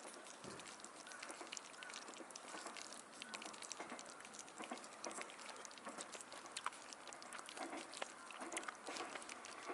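Campfire crackling: a faint, irregular run of small snaps and pops over a soft hiss.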